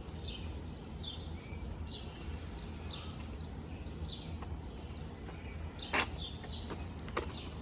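A bird calling, a short falling chirp repeated about once a second, over a low steady hum. Two sharp clicks come near the end, the first, about six seconds in, the loudest.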